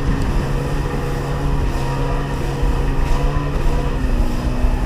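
Sea-Doo XP personal watercraft's 80 hp two-stroke engine running steadily under way, over a low rush of wind and water. The engine note drops slightly about four seconds in.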